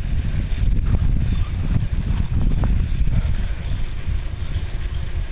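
Wind buffeting the camera's microphone as a bicycle rolls fast downhill: a steady, loud low rumble with a few faint ticks.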